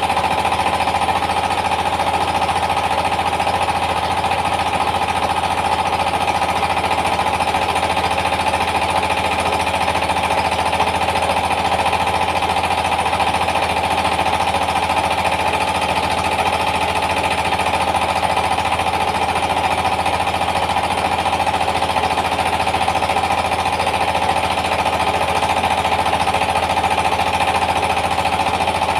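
Yanmar TS230 single-cylinder diesel engine running steadily under load, driving a rice milling machine, with an even, fast knocking beat and a steady mill hum over it.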